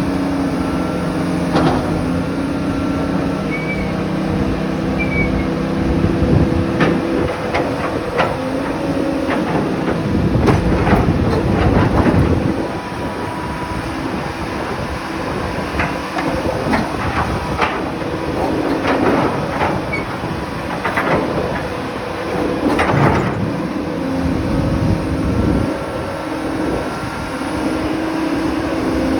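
Cat 336D L hydraulic excavator working: the diesel engine and hydraulics run under changing load, with a steady hum that shifts in pitch, and sharp metallic clanks and knocks now and then, loudest around the middle.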